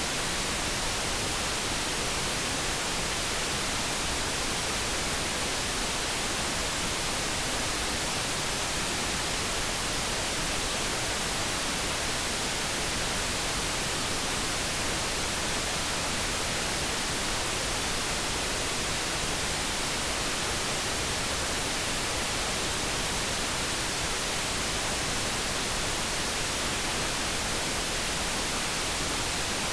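Steady synthetic noise: an even, unchanging hiss with no tone or other sound standing out.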